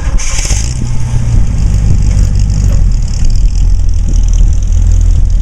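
A 350 V8 crate engine in a 1947 Chevrolet Fleetline street rod, running steadily with a deep low rumble.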